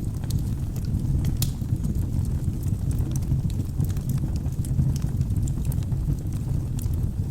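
Wood fire burning in a fireplace: a steady low noise of flames with sharp, irregular crackles and pops of burning logs scattered throughout.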